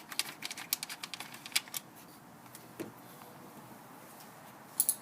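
Ratchet wrench clicking in quick, uneven runs as a radiator fan mounting bolt is loosened, then a short pause and two more clicks near the end.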